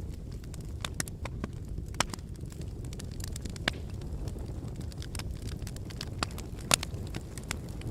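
Wood fire in a brick fireplace crackling: irregular sharp pops and snaps, a few louder ones about two, four and seven seconds in, over a steady low rumble of the flames.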